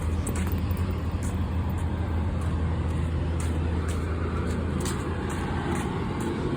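Steady low hum of running HVAC equipment, with a few faint ticks over it.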